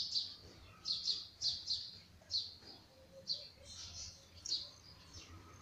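A bird chirping again and again: short, high, downward-sliding chirps, about two a second.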